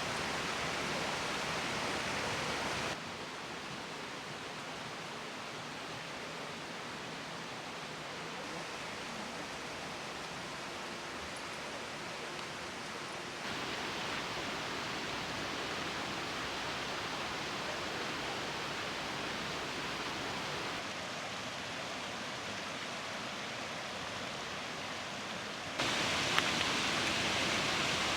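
Waterfall: steady rushing, splashing water, its level jumping abruptly up or down four times.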